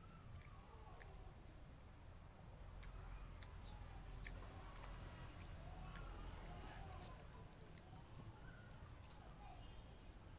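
Quiet outdoor ambience: a steady high insect drone, like crickets, with faint scattered bird calls, small clicks and one sharp click a little after three and a half seconds.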